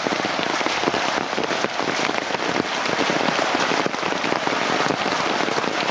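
Heavy rain falling, a steady dense hiss of countless drops striking surfaces.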